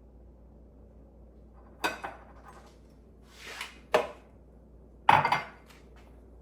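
Kitchen utensils knocking against a mixing bowl while flour is measured out: a handful of sharp taps and knocks, the loudest about five seconds in, with a short rushing scrape just before the fourth second.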